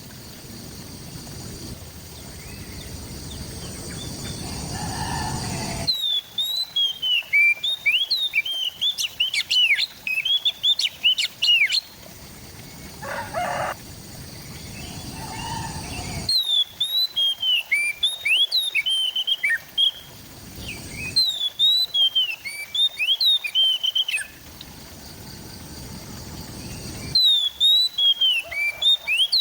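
Oriental magpie-robin (kacer) singing: bursts of a few seconds of quick, varied whistles and chirps, with short pauses of background hiss between phrases.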